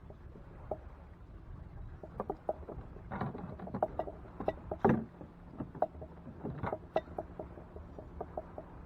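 Irregular knocks and clicks on and around a fishing kayak, a few a second and loudest in the middle few seconds.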